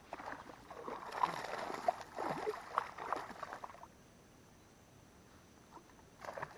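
Snakehead striking at a topwater lure: several seconds of splashing and slapping water that stop abruptly, then one short splash near the end.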